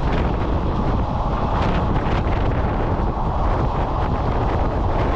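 Steady running noise of a passenger train under way, with wind buffeting the microphone and faint, irregular clicks.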